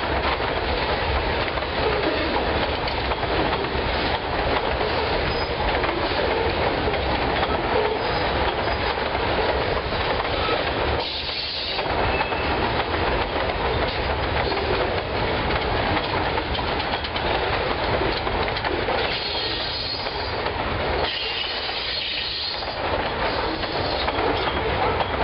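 Freight train's covered hopper cars rolling past, steel wheels clattering over the rail. High wheel squeals come in briefly about 11 seconds in and again around 20 seconds in.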